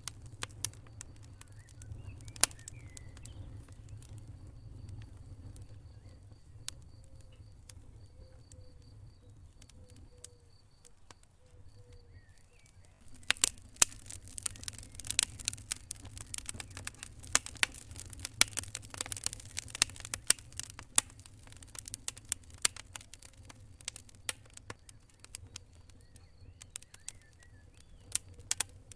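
Wood fire burning in a fireplace: scattered crackles and sharp pops over a low rumble of the flames, the crackling growing much busier and louder for several seconds in the middle.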